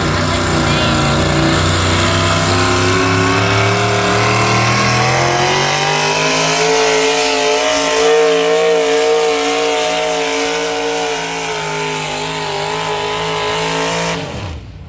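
A pulling tractor or truck engine revs up over several seconds to a high, steady scream under load, then cuts off suddenly near the end.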